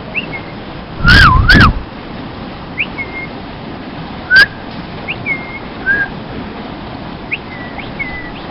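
A parrot whistling and chirping: a loud two-part whistle that swoops up and down about a second in, then short, repeated chirps and a sharp click, the repeated sounds the bird has been mimicking.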